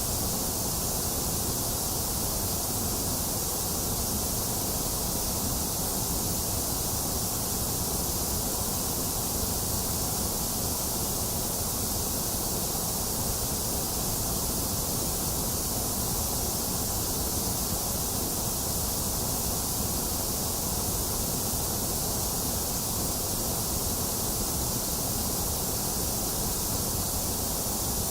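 A box fan running steadily, mixed with the even hiss of falling rain, with no change and no thunder.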